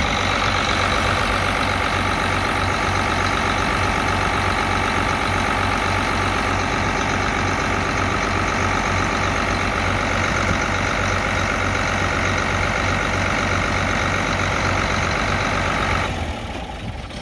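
Allis-Chalmers 7060 tractor's six-cylinder diesel engine running steadily, cutting off about a second before the end.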